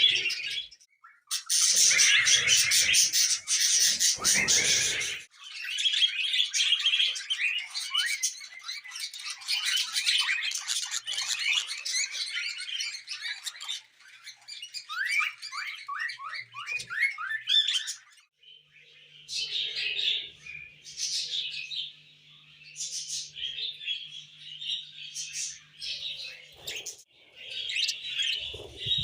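Small pet parrots chirping and chattering in a dense, high-pitched warble, broken by a few short dropouts. About halfway through comes a run of quick rising chirps.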